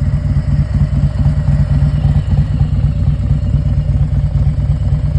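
2018 Harley-Davidson Road Glide Special's Milwaukee-Eight V-twin idling steadily through a 2-into-1 exhaust, with its loping low pulse.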